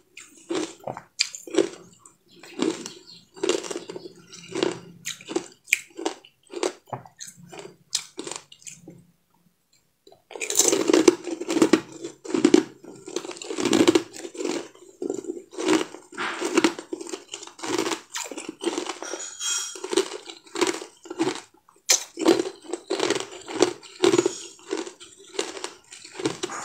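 A person eating close to the microphone: rapid chewing and crunching. It stops briefly about nine seconds in, then resumes more densely.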